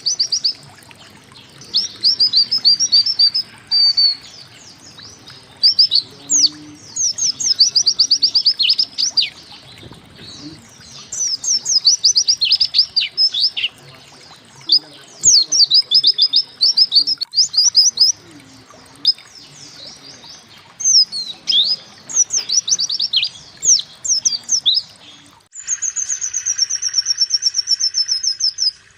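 Pleci (white-eye) song: bursts of fast, high chirping and twittering notes, repeated with short pauses between phrases. Near the end it changes to a fast, even, high trill over a steady lower buzz.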